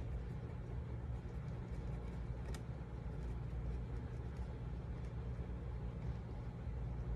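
Steady low background hum, with a faint tick about two and a half seconds in.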